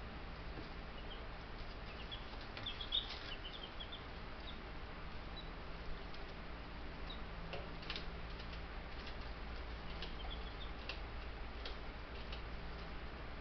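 Four-day-old Buff Brahma chicks peeping in short high chirps, in clusters about two seconds and ten seconds in, with scattered light clicks and a steady low hum.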